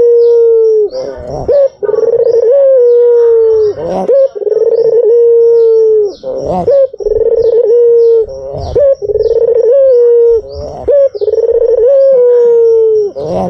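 White Barbary dove (puter putih) cooing over and over, about once every two seconds. Each coo is a short rising note followed by a long, slightly falling held note.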